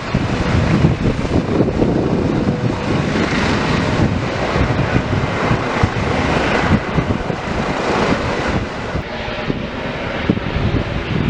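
Fixed-wing aircraft engines running loud and steady, easing a little near the end, with wind buffeting the microphone.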